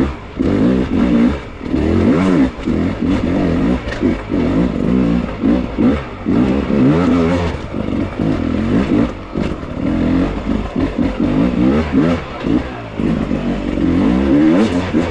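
Beta hard enduro dirt bike engine on the throttle through a technical rocky section, its revs blipping up and falling back over and over in short bursts.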